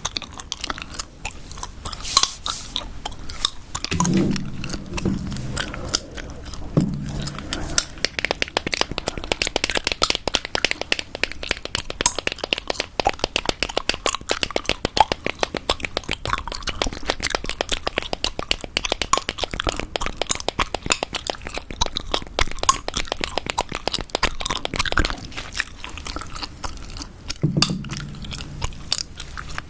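Close-miked gum chewing with a dense run of quick sharp clicks and taps, fastest through the middle stretch.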